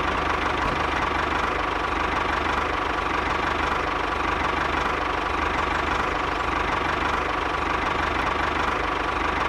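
Small engine of a homemade mini bulldozer running steadily, with a fast, even knocking beat.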